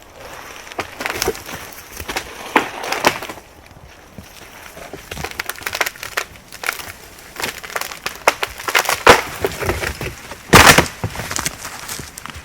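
Dry wood cracking and crunching: a string of irregular snaps, the loudest a longer crackle about ten and a half seconds in.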